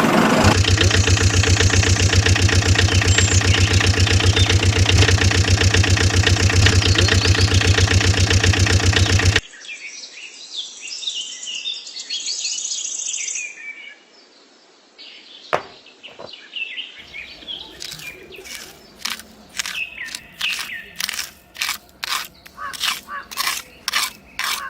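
Small engine of a DIY mini tractor running steadily with an even pulse, then cutting off abruptly about nine seconds in. Birds chirping follow, with a few sharp clicks and then a quick run of clicks near the end.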